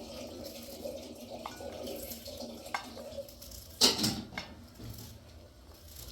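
Water splashing and trickling, with a few light knocks and one louder splash or clatter just under four seconds in.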